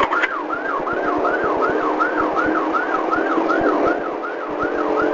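Police siren in a fast yelp, a rising-and-falling wail about three times a second, with a steady hum underneath.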